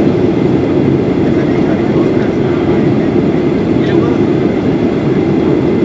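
Steady cabin noise inside a Boeing 737-800 in flight: a low, even rumble of airflow and the CFM56-7B engines, heard from a window seat.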